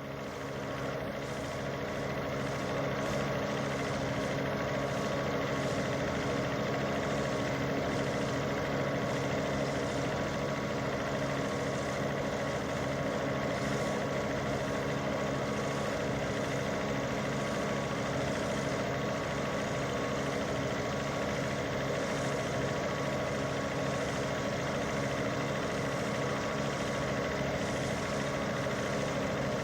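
An engine idling steadily, a constant hum that neither rises nor falls.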